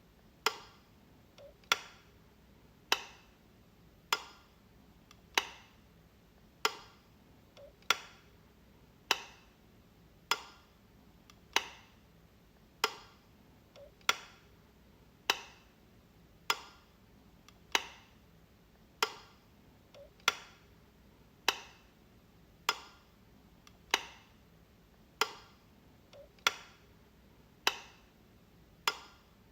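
Light switch being flicked, one sharp click about every 1.2 seconds in a steady, even rhythm.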